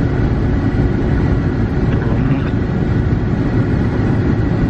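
Steady low rumble of a car driving slowly on a snowy road: engine and tyre noise heard from inside the cabin.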